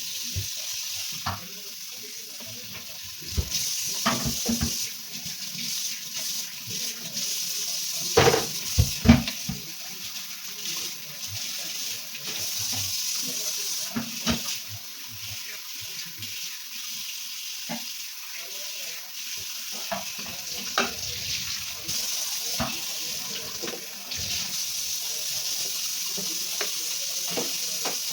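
Tap water running into a sink, with scattered knocks and clatter of things being handled under it, the loudest a cluster about eight to nine seconds in.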